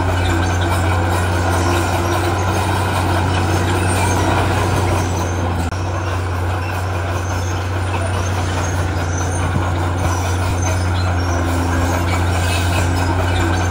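Heavy diesel engine of earthmoving machinery running steadily, with a deep, even hum and a brief dip in level about six seconds in.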